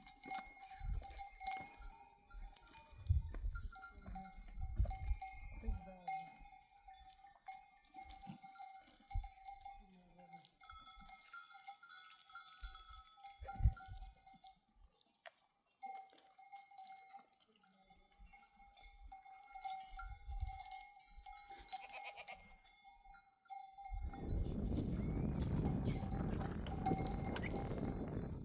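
Sheep bells clinking and ringing steadily as the flock moves, with scattered low knocks. Near the end a loud, even rush of low noise takes over and covers the bells.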